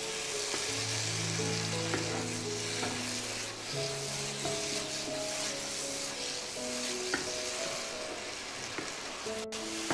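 A potato, onion and pumpkin-seed mixture sizzling in mustard oil in a nonstick kadai while a spatula stirs and scrapes it, frying it down to dry it out. There are a couple of light taps of the spatula on the pan. Soft instrumental background music plays along.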